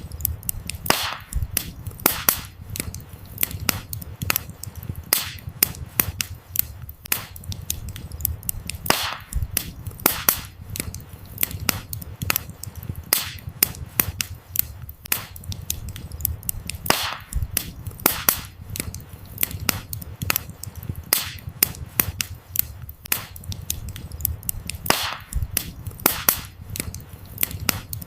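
Wood fire burning, with frequent sharp crackles and pops of the firewood at irregular intervals over a low, steady rumble of flames.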